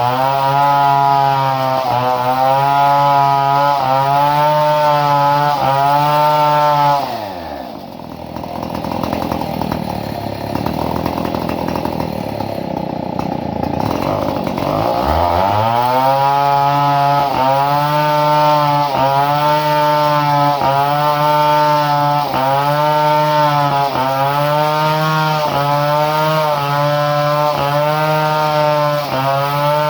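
Two-stroke chainsaw running at high revs with a slight regular pulse in engine speed. About a quarter of the way in the engine bogs down into a rough, noisy stretch, as when the chain is cutting into wood, and at about halfway it revs back up to full speed.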